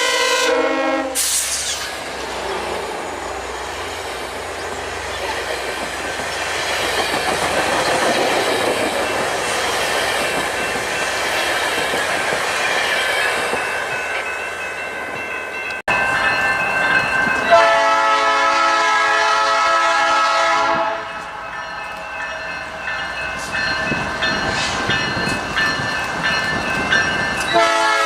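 Train horn blowing a multi-note chord that ends about a second in, followed by a passing train's wheels clattering over the rails. After an abrupt cut, a train horn sounds again for about three seconds, and another horn starts near the end.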